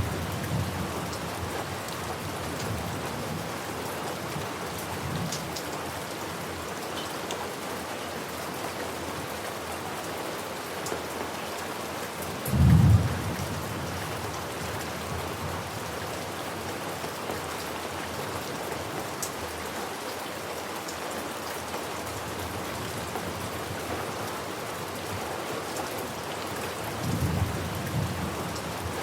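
Steady rain falling, with thunder: one short, loud, low thunderclap about halfway through, and softer low rumbles near the start and near the end.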